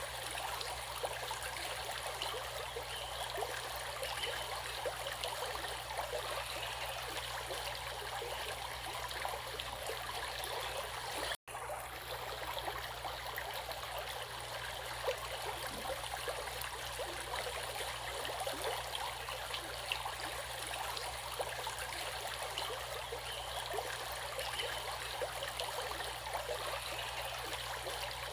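A stream of water flowing and babbling steadily. It cuts out completely for an instant about eleven seconds in, then carries on the same.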